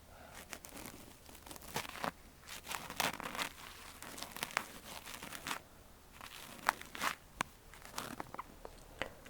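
Ear-cleaning tool scraping and scratching inside an ASMR ear microphone, close and crackly, with irregular strokes and sharp clicks.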